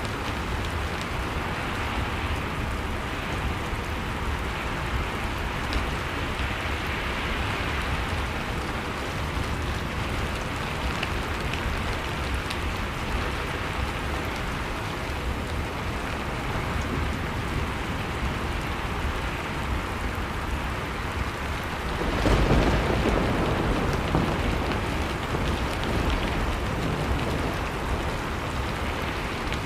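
Blizzard ambience: howling wind in slow swells over the steady crackle of a fireplace fire, with scattered faint pops. About two-thirds of the way through, a louder, deeper rumble surges in and slowly eases.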